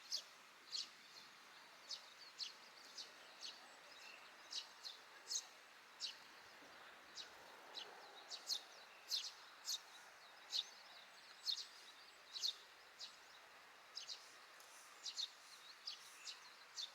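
Eurasian tree sparrows chirping: short, high, sharp chirps, irregularly one or two a second and sometimes in quick pairs, over a steady faint outdoor hiss.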